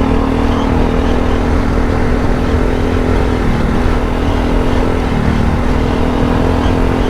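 Adventure motorcycle's parallel-twin engine running at a steady pitch, with the revs dipping briefly about halfway through and again about five seconds in, over a low rumble of wind and tyres.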